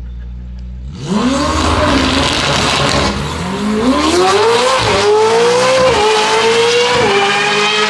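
A high-performance car launching hard from idle about a second in and accelerating away. The engine pitch climbs and drops back at each gear change.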